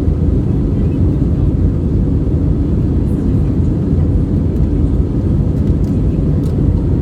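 Steady low rumble of an Airbus A320 airliner cabin in flight: jet engine and airflow noise, with no change in level or pitch.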